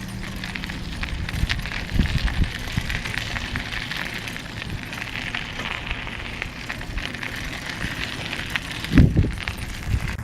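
Bicycle being ridden over rough ground: a steady crackling rattle of tyres and frame, with heavy low thumps about two seconds in and again near the end.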